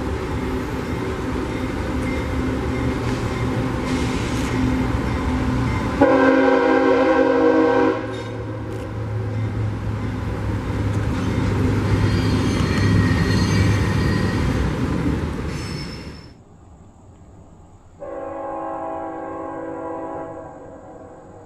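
A freight train passing with its diesel locomotive running heavily. The air horn sounds one loud blast of about two seconds. Then, after an abrupt drop in level, a fainter horn blast of about two and a half seconds is heard over quiet surroundings.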